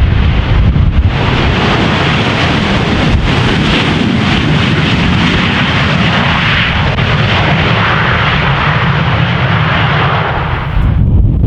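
Jet airliner engines roaring as the aircraft passes close on its landing approach, with heavy wind rumbling on the microphone throughout. The roar comes in about a second in and cuts off suddenly near the end.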